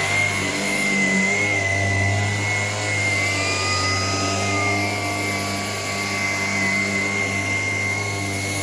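Shark PowerDetect cordless vacuum running with a steady motor hum and high whine; about three seconds in, further whining tones come in, then fade away over the next few seconds.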